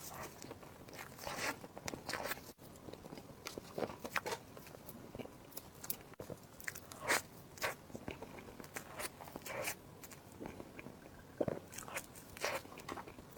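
Close-miked eating sounds: irregular crunchy bites and chewing.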